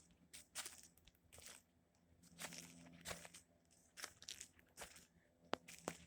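Faint, irregular crunching footsteps on gravel.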